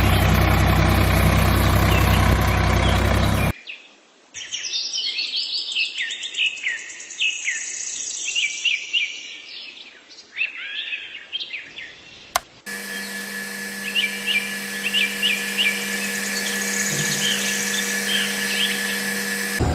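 Small birds chirping and calling outdoors, many short rapid chirps. About a third of the way in a loud steady sound cuts off before the chirping, and near the middle the chirping goes on with a steady hum under it.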